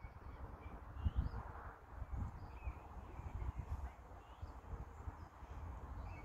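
Small birds chirping faintly in short scattered calls, over a low, uneven rumble of wind buffeting the microphone.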